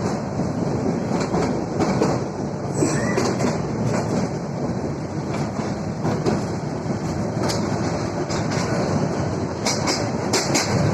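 Train running along the track: a steady rumble with the clickety-clack of wheels over rail joints, and a brief high-pitched note about three seconds in.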